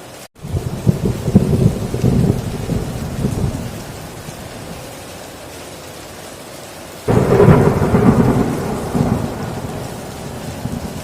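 Two rolls of thunder over steady heavy rain on a tin roof. The first rumble starts about half a second in and fades over three seconds. The second starts suddenly with a sharper crack about seven seconds in, then rumbles away.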